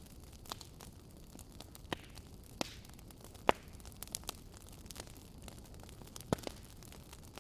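Wood fire crackling in a fireplace: scattered sharp pops and snaps over a steady low hiss, the loudest pop about three and a half seconds in.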